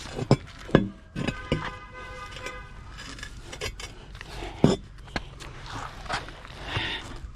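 Metal clanks and clinks of hand tools and suspension parts being handled. One knock about a second in leaves a metallic ring that lasts a second and a half, and another sharp clank comes near the middle.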